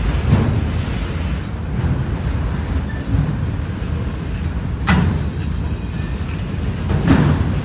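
Freight train of autorack cars rolling past: a steady low rumble of wheels on rail, with three sharp clacks as wheel sets cross rail joints.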